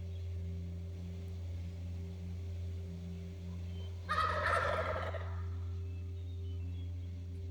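A wild turkey tom gobbling once, a loud rapid rattling call about four seconds in, over a steady low hum.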